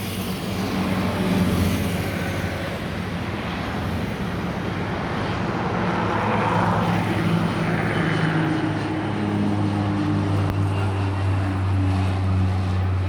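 Airbus A320 jet engines on final approach, a steady noise over a low hum that swells about halfway through as the airliner passes.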